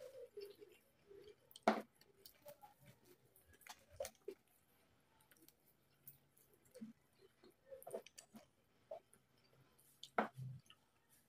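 Close-up eating sounds: chewing of crispy pata, deep-fried pork knuckle, with scattered short clicks and smacks as the meat and crisp skin are torn and eaten. Two sharper, louder snaps stand out, one a little under two seconds in and one near the end.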